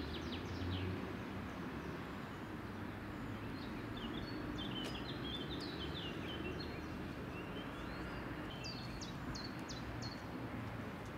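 Songbirds chirping in short runs of quick notes, several in the middle and a few more near the end, over steady outdoor background noise.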